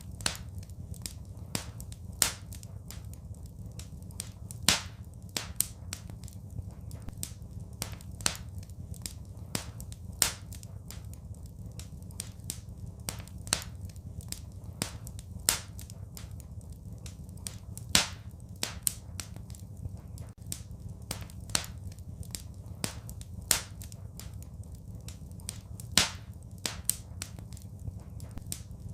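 Wood fire crackling in a fireplace: irregular sharp pops and snaps several times a second, a few much louder cracks every few seconds, over a steady low rumble.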